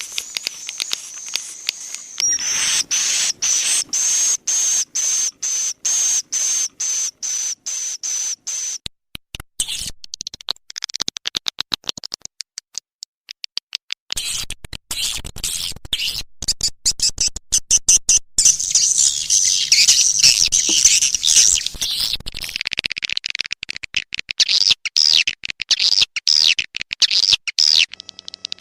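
Recorded edible-nest swiftlet calls played as a lure track to draw swiftlets to a nesting house: rapid trains of sharp clicks under a high, steady whistle-like tone, thinning out around the middle, then dense high-pitched twittering.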